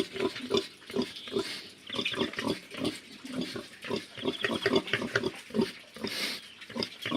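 Pigs grunting in a steady run of short, low grunts, about three or four a second, with a brief high trill every couple of seconds.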